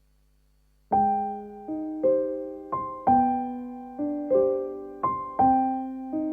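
Background music: a gentle piano melody, struck notes and chords fading between strokes, starting about a second in after near silence.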